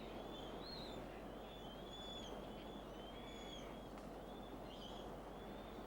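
Faint bird calls: a string of short, arched whistling notes, some overlapping, over a low steady hiss.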